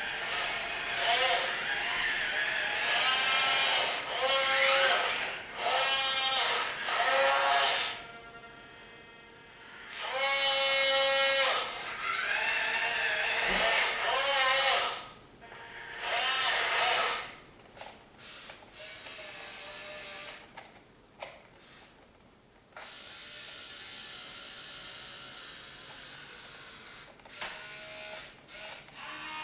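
Small electric gear motors of a 1/14-scale Hobby Engine remote-control log loader whining in repeated short runs of one to two seconds, the pitch rising as each run starts and falling as it stops. Quieter, steadier runs follow in the second half.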